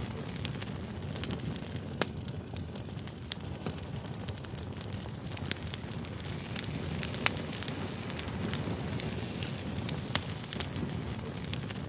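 Firewood burning: a steady low rumble of flames with irregular sharp crackles and pops, a few standing out louder than the rest.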